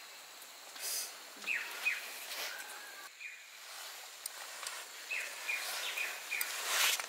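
A small bird calling with a series of short, falling chirps, in two clusters, over outdoor background noise. A few brief noisy swishes are mixed in, the loudest near the end.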